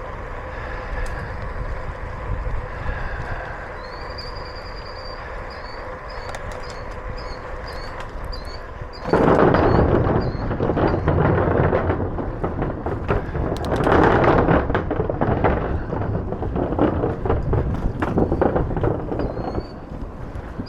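Bicycle riding noise: steady tyre and wind noise with a repeated high chirp, then about nine seconds in a sudden, much louder rattling rumble as the bike runs over a rougher surface with wind buffeting the microphone.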